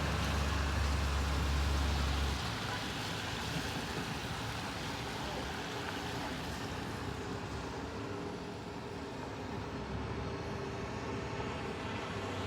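Street traffic noise: a steady hiss of passing vehicles, with a heavy low rumble that drops away about two seconds in.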